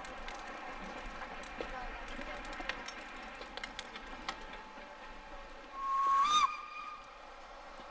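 Steam locomotive whistle: one short blast of under a second, a steady tone with hiss that bends up in pitch just before it stops. Small clicks and knocks in the background.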